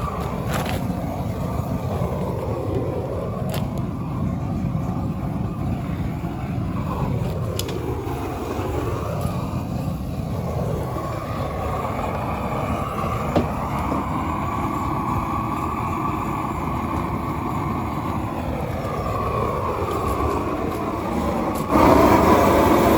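Gas flame burner roaring steadily as its flame is played over a plastic bumper. The sound swells and thins in slow sweeps as the torch moves, and gets clearly louder near the end.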